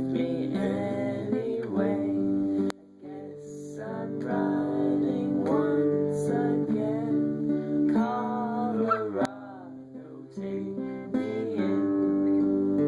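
Music: a strummed acoustic guitar, with a voice singing at times.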